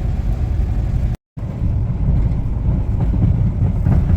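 Snow-plowing vehicle's engine running with a steady low rumble, broken by a brief gap about a second in.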